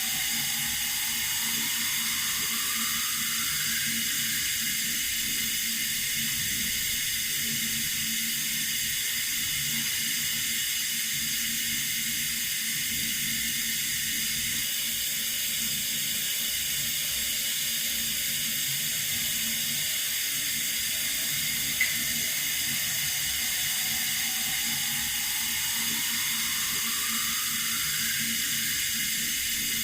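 Tap water running in a steady hiss. A faint rising whistle comes twice, near the start and near the end, and a single short click comes about two-thirds of the way through.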